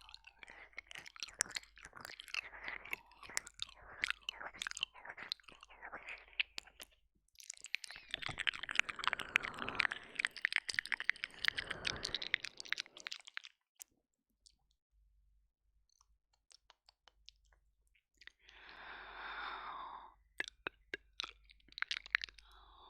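Close wet mouth sounds of ASMR ear licking and 'ear eating' on a binaural ear microphone: quick lip smacks and tongue clicks, then a longer stretch of dense, continuous wet licking. A few seconds of near quiet with scattered clicks follow, then a brief soft rushing sound and more clicks near the end.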